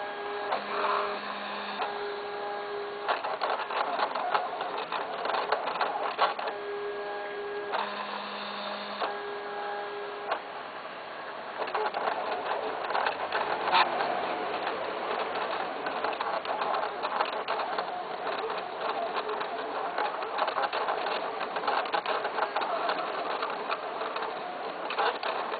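A machine running with a dense, rapid mechanical clatter. In the first ten seconds a steady tone sounds on and off over it.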